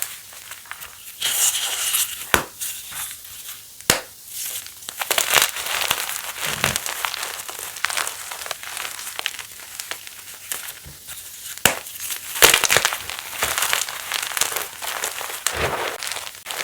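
Block of pasted (reformed) gym chalk being crushed: crisp crunching and crackling with irregular sharp snaps throughout.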